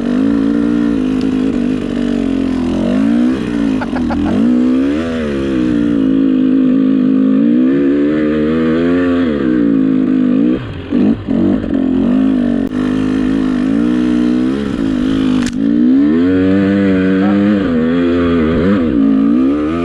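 Dirt bike engine revving up and down over and over as the throttle is worked on a loose, snowy hill climb to manage rear-wheel traction. Around ten seconds in the engine drops away in a few short gaps before picking back up, and there is a single sharp knock about fifteen seconds in.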